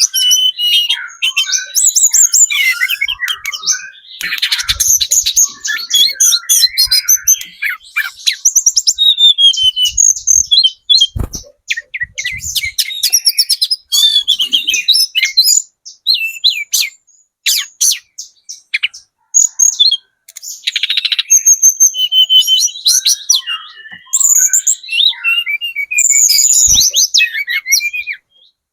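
Mountain flowerpecker (tledekan gunung) singing: a fast, busy run of thin, high-pitched chirps, twitters and trills, broken by short pauses, with a couple of faint knocks.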